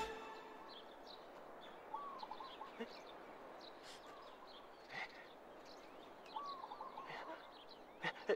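Faint birdsong: small birds chirping, with short rising-and-falling calls repeated a few times, over a soft outdoor hiss. Two short sharp knocks near the end.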